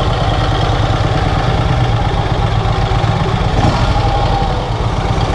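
1951 Vincent Rapide's 998 cc V-twin engine idling steadily.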